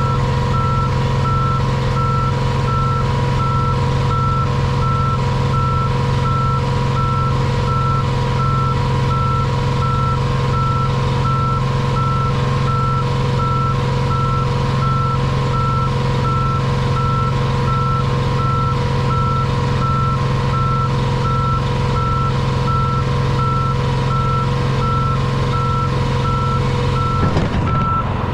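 Backup alarm beeping steadily, about one and a half beeps a second, over a diesel engine running at a steady speed.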